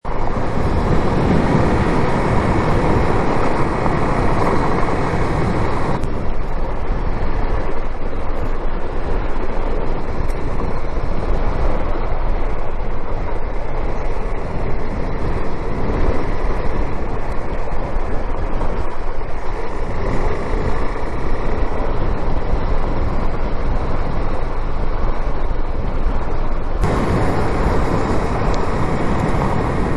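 Steady road and engine noise of a moving car. The sound turns duller about six seconds in and brighter again near the end.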